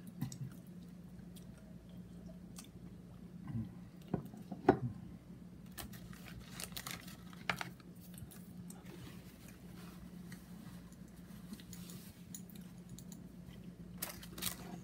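Quiet chewing and crunching of food, with occasional sharp clicks and taps of handling and a steady low hum underneath.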